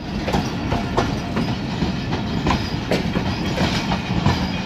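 Pakistan Railways passenger coaches of an arriving express rolling past, their wheels clacking over the rail joints in an uneven run of clicks over a low rumble.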